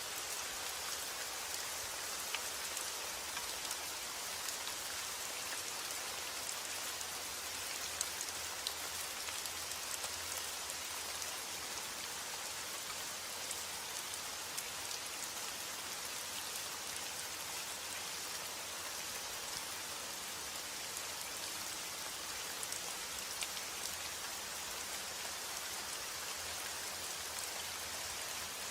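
Steady rainfall: an even hiss of rain on a surface, with scattered individual drops ticking now and then.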